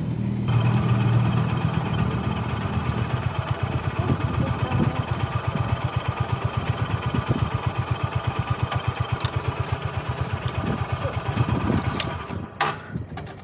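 Honda GB350's air-cooled single-cylinder engine idling with an even, steady thump, the motorcycle standing still. Near the end there are a few sharp clicks and the engine sound drops away.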